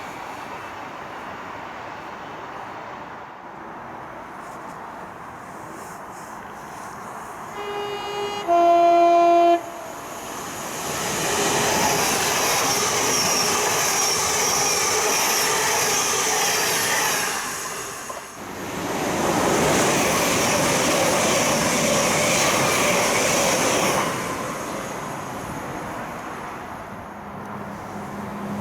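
A passing train sounds a two-tone horn about eight seconds in, a higher note and then a lower one, and then rushes through at speed. The steady rush of wheel and air noise lasts about thirteen seconds, with a short dip partway through.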